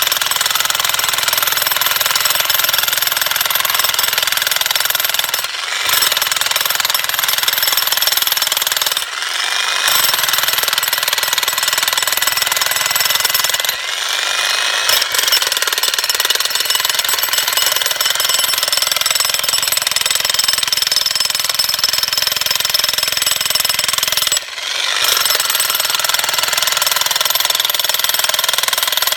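Jackhammer breaking up stone, running steadily and loudly with four short pauses where the hammering stops for under a second.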